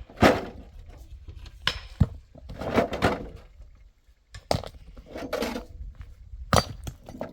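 Irregular knocks and clattering of hard objects being handled, with several sharp thuds and scraping between them.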